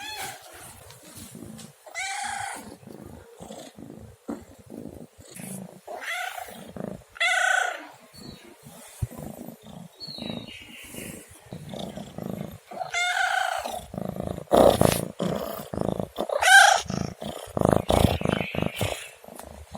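Domestic cat meowing repeatedly, about five separate drawn-out meows spaced a few seconds apart. Short knocks and rustling sound between the calls, loudest in the second half.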